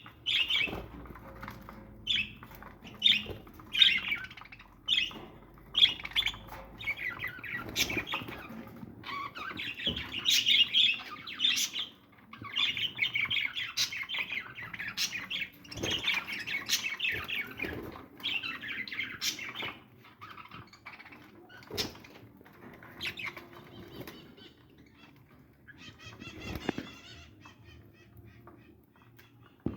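Aviary birds calling, with wings flapping. Sharp calls come about once a second at first, thicken into dense chattering in the middle, then thin out to scattered calls.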